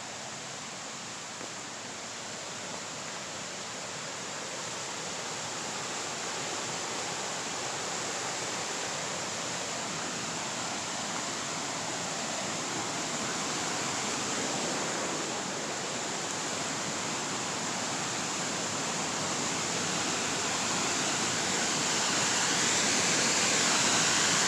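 Rushing water of a waterfall, a steady hiss that grows gradually louder.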